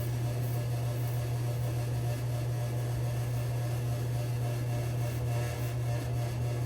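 A steady low machine hum, with faint, occasional scraping strokes of a safety razor over lathered stubble during the first shaving pass.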